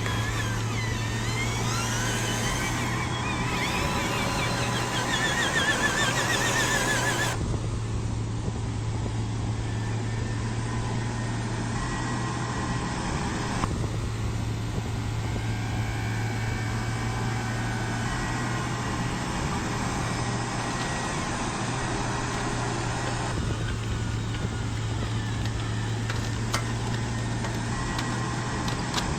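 Radio-controlled construction models running: a steady low, engine-like hum throughout, with a whine that wavers up and down in pitch during the first several seconds.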